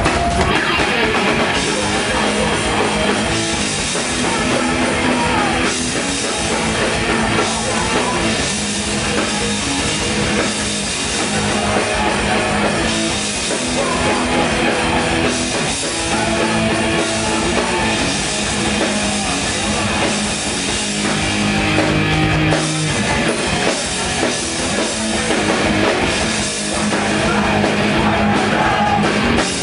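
Hardcore punk band playing live and loud: distorted electric guitars with drum kit and bass, without a break.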